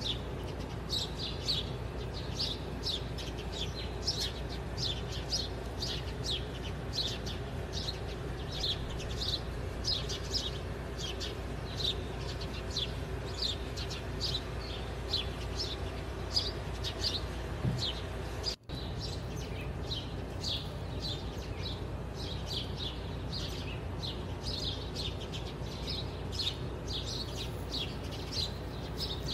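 Birds chirping steadily, with short, quick chirps a few times a second. The sound cuts out for an instant about two-thirds of the way through.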